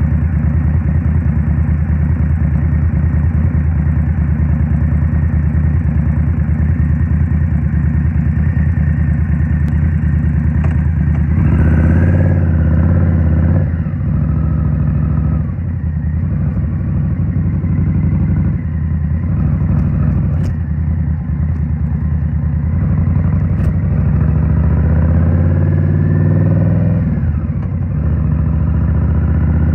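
A 2023 Indian Scout Rogue's 69 cu in V-twin running through a Rinehart slip-on exhaust. It holds steady at low revs, then revs up about 12 seconds in and falls back. It climbs again about 25 seconds in, then eases off.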